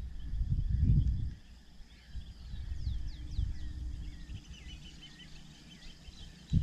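Wild birds calling: a few quick falling whistles, then a twittering warble, over a low rumble on the microphone that dies away after the first second or so.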